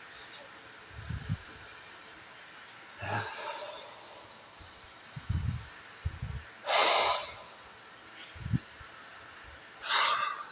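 Two sharp, noisy exhales about three seconds apart, with a few faint low thuds and faint bird chirps behind.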